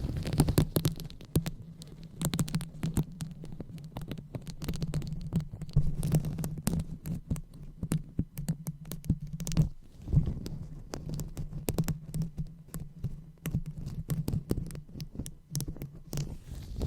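ASMR 'brain massage': fingers rubbing and kneading right on a microphone, giving continuous close crackling and scratching over a low rumble.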